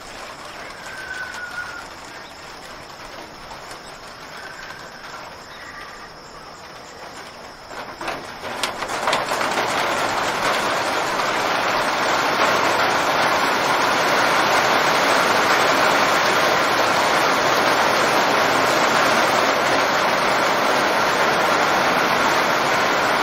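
A few faint bird chirps over quiet outdoor ambience, then about 8 seconds in a heavy rain sound swells in and keeps on as a steady, dense hiss.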